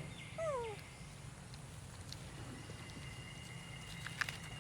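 A monkey gives one short call that falls in pitch, about half a second in, over a steady high-pitched tone in the background; a few sharp clicks come near the end.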